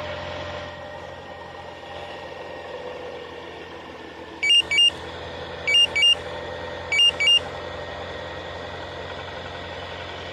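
Kia Sportage 3 engine idling steadily just after starting, with the knock that the owner is complaining of. About halfway through, three pairs of loud electronic beeps come a little over a second apart.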